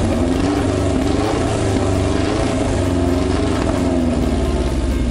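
Bare Toyota 4A-GE four-cylinder engine on a test stand, running loud through an open straight-pipe header with no muffler, its speed wandering up and down unevenly just after it has fired up.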